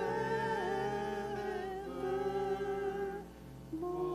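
Worship singing with accompaniment: a long held note with slight vibrato over sustained chords. It fades out about three seconds in, and a new held chord starts shortly after.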